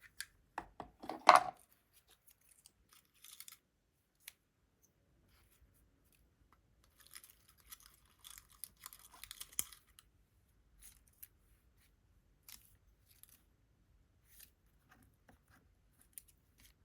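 Paper-crafting handling noises: a few sharp clicks and taps, then scattered small ticks and a few seconds of crinkly paper rustling about seven seconds in, as paper flowers and stickers are handled.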